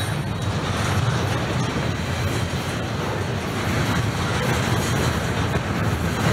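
Double-stack intermodal container train rolling past, its well cars' wheels on the rails making a steady, continuous low rolling noise.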